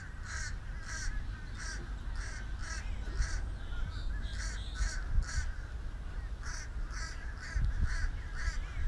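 A bird calling over and over in short, even calls, about two a second, over a steady low rumble.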